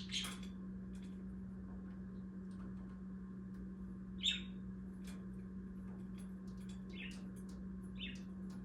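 Pet budgerigars giving a few short, separate chirps, the loudest about four seconds in, with faint clicks between them. A steady low hum runs underneath.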